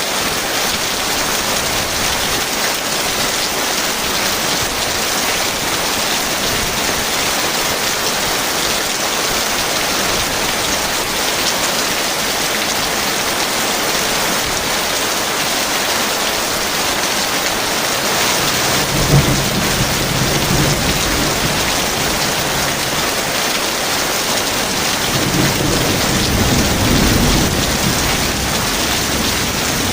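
Heavy rain falling in a steady, even hiss, with thunder: a sudden clap about two-thirds of the way in that rumbles on for a few seconds, and a second, longer low rumble near the end.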